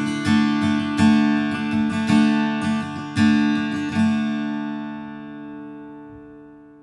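Steel-string acoustic guitar strummed, about one stroke a second, ending on a final chord about four seconds in that rings out and fades away.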